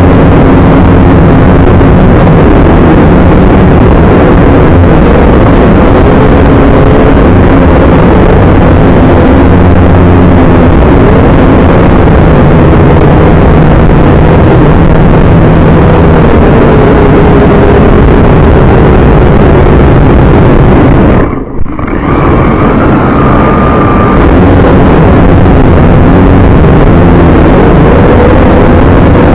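Drone motors and propellers, heard from a camera riding on the drone: a loud, continuous buzzing whose pitch wavers, with a brief drop about two-thirds of the way through.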